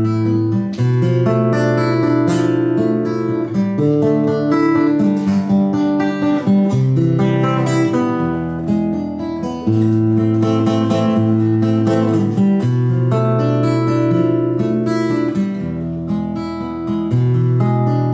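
Acoustic guitar playing an instrumental interlude between verses, strummed chords over a changing bass line.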